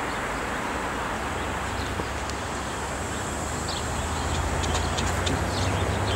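Road traffic on a city street: steady road noise, with a low engine hum that builds and grows louder through the second half as a vehicle draws near.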